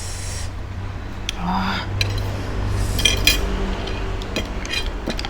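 Cutlery clinking and scraping against plates and dishes during a meal, in scattered sharp clicks with a small cluster about three seconds in, over a steady low hum.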